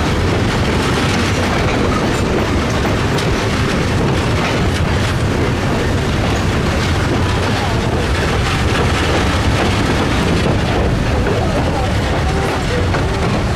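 Passenger train rolling along the track, a steady, even noise of the moving cars on the rails.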